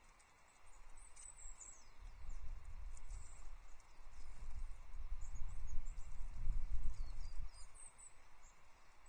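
High, thin calls of small tits: a few short chirps and a downward slide. They sit over a louder low rumbling and knocking that builds from about a second in and fades near the end.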